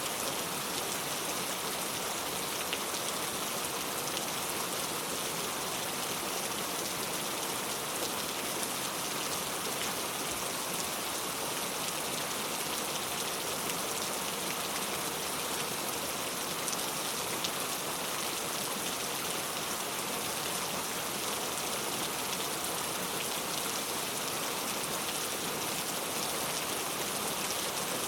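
Heavy rain falling steadily, a dense even hiss with fine crackle of drops hitting a surface.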